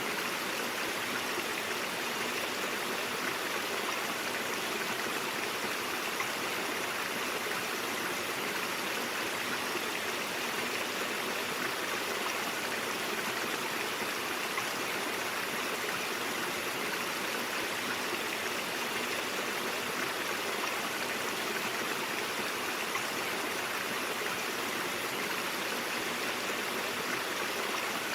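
Brook water flowing over rocks, a steady rushing and babbling.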